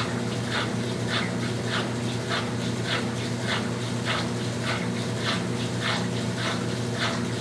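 Brastemp Tira Manchas Pro 12 kg washing machine running mid-cycle: a steady motor hum with short, high whining swishes repeating about twice a second.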